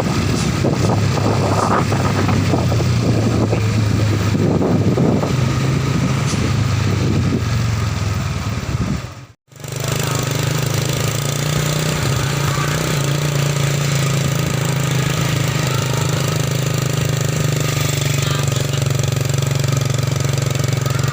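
Truck engine running steadily with a rattling clatter, with voices over it for the first several seconds. The sound cuts out briefly about nine seconds in, then the engine runs on steadily.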